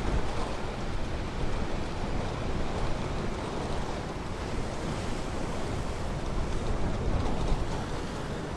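Ocean surf washing onto a beach, a steady wash of breaking waves with a low rumble.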